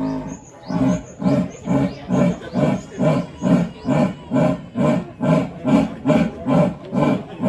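A large animal calling: a regular series of about sixteen deep grunting calls, a little over two a second.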